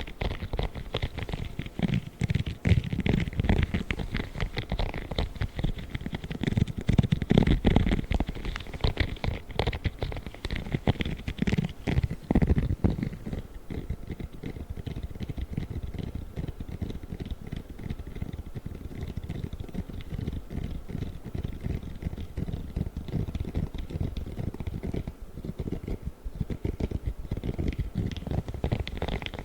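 Spiky rubber ASMR gloves rubbing and scratching in fast, dense crackles, with a heavier low rumble that gets quieter about halfway through.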